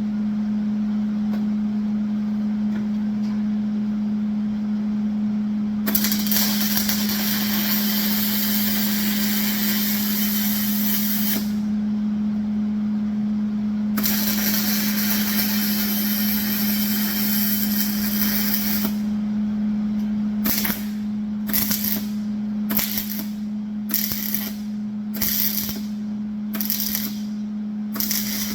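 Welding steel angle iron: two long crackling weld runs of about five seconds each, then a quick series of short bursts roughly once a second, like stitch or tack welds. A steady low hum runs underneath throughout.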